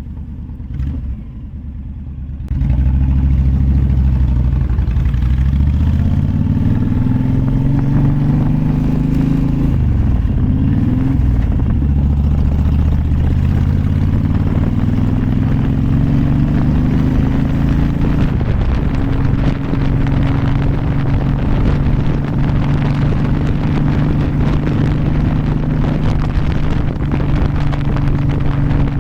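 Honda VTX 1300 V-twin motorcycle engine under way. About two and a half seconds in it gets much louder and climbs in pitch as the bike accelerates, drops back at gear changes around ten and eighteen seconds in, then settles to a steady cruise.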